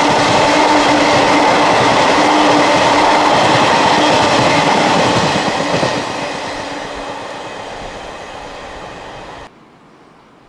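Container freight train's wagons rolling past on the rails: a loud, steady rumble and rattle with a held hum, fading from about halfway as the train draws away. The sound cuts off suddenly near the end, leaving only quiet background.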